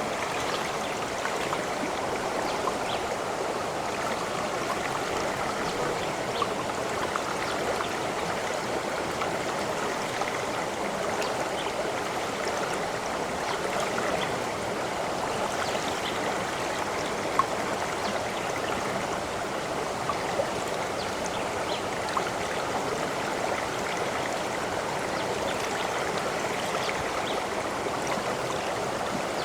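Stream of water flowing and trickling steadily, with small splashes and drips scattered through it.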